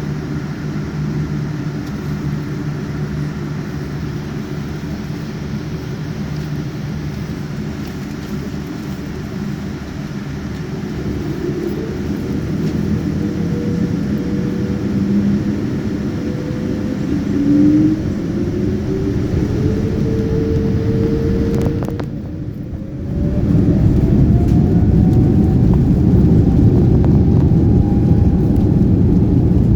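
Airliner cabin sound of a Boeing 787-9's engines spooling up. A steady low rumble gives way to a whine that rises in pitch from about ten seconds in. About twenty-three seconds in, the cabin fills with a much louder, steady roar as takeoff thrust is set.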